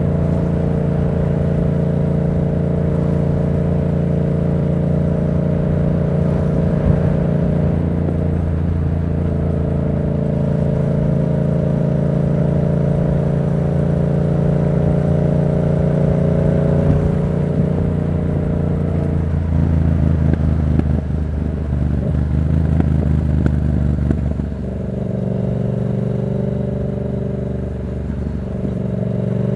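2024 Yamaha MT-07's parallel-twin engine, fitted with an aftermarket Black Widow exhaust, running at a steady note under way. About twenty seconds in, the note breaks up as the revs drop, then settles lower and steady, picking up slightly near the end.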